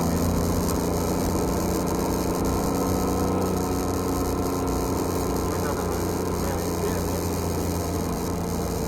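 Porsche 991 GT3 RS's naturally aspirated 4.0-litre flat-six idling steadily, the car stationary with the engine running before pulling away.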